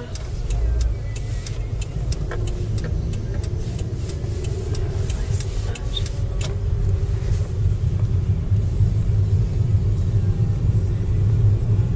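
Road noise inside a moving car: a steady low rumble of engine and tyres, with scattered sharp clicks and rattles during the first half.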